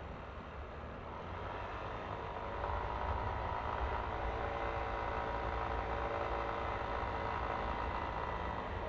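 Yamaha Aerox scooter's single-cylinder engine running under way, its tone swelling about two seconds in and then holding steady, over a low wind rumble on the microphone.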